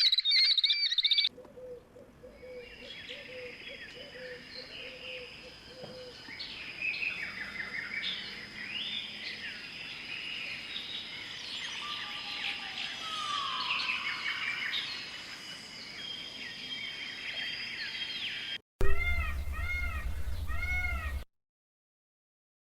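Small birds chirping and twittering together for most of the stretch. This is followed by about two seconds of rapid, evenly repeated high mewing calls that cut off suddenly.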